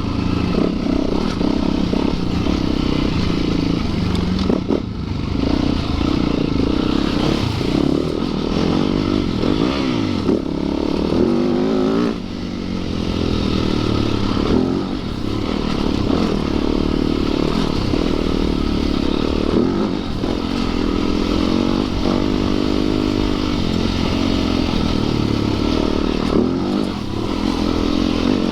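Yamaha YZ450FX single-cylinder four-stroke dirt bike engine running under way, its revs rising and falling with the throttle, with a few knocks from the bike over rough ground.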